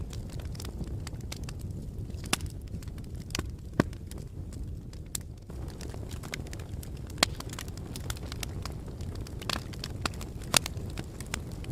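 Wood fire burning in a fireplace: a steady low rush of flames with scattered sharp crackles and pops, a few louder snaps about four, seven and ten and a half seconds in.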